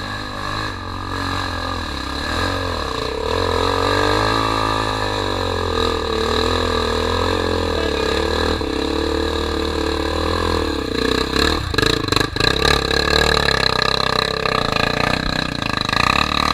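Honda XR 250 Tornado's single-cylinder four-stroke engine running under changing throttle, its pitch rising and falling, with choppier, pulsing revs in the last few seconds.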